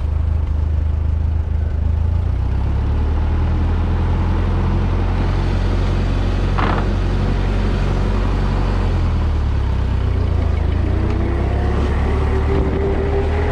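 Ford 2N tractor's four-cylinder flathead engine running under load as it is driven, its pitch shifting about two seconds in and again around nine seconds. There is a single sharp knock about two-thirds of the way through, and a rising whine near the end.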